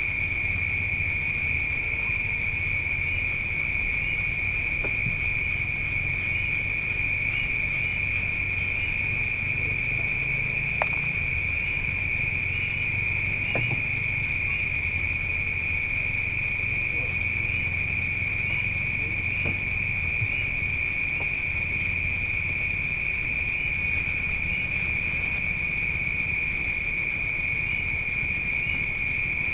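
Insects at night trilling steadily without a break, a continuous high whine, with small chirps about once a second over a low hum.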